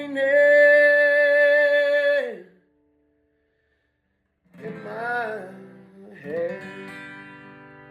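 A man's voice holds the song's last sung note over a jumbo acoustic guitar, and both stop together about two and a half seconds in. After a couple of seconds of silence, a few final guitar notes are played and left to ring out, fading away.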